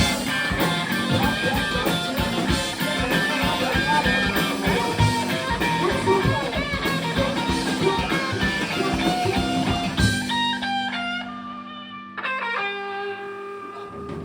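Live rock band playing with electric guitar and drums; about ten seconds in the drums stop and guitar chords ring out, with one more chord struck near the end and left to fade as the song closes.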